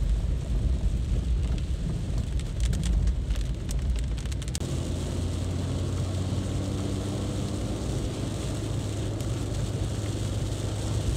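Road vehicle running in heavy rain: low engine and road rumble under the hiss of rain and wet tyres, with a run of small clicks. About four and a half seconds in, the sound changes to a steadier low hum.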